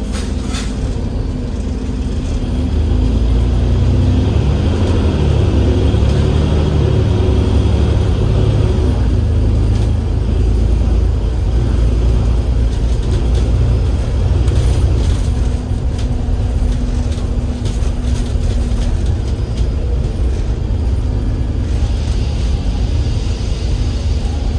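Cummins L9E diesel engine of an Enviro500 MMC double-decker bus under way, a loud steady drone with road noise. Over the first several seconds the engine note climbs in pitch in a few steps as the bus accelerates through the ZF EcoLife automatic gearbox, then runs on steadily.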